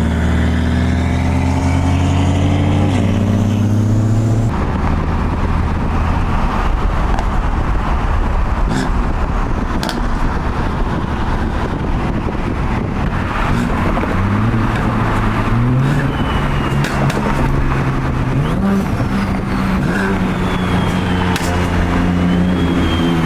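A car driving, with its engine and road noise heard from inside the car. The engine holds a steady note at first, then the sound suddenly turns to a broad rush. In the second half the engine note climbs in several steps.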